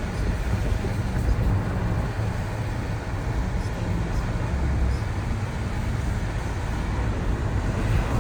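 Car driving along a road: steady, low rumble of engine and tyre noise.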